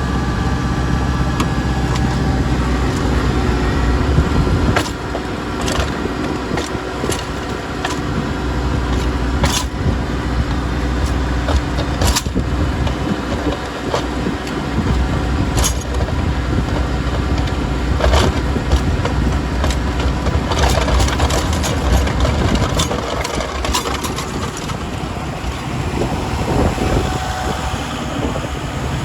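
Kubota L5240 tractor's diesel engine running steadily, with scattered sharp knocks and rattles over it.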